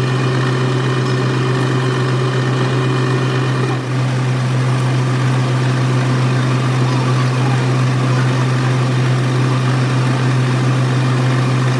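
A workshop machine running steadily with a loud low hum and fainter steady tones above it. About four seconds in, one of the higher tones stops with a brief dip, and the machine runs on.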